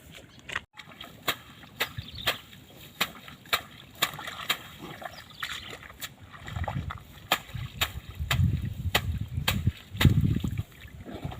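A run of sharp knocks, about two a second, with low rumbling bursts from about six seconds in.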